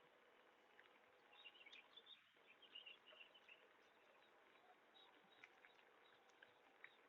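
Very faint outdoor background with a few bird chirps in the first half and scattered small ticks.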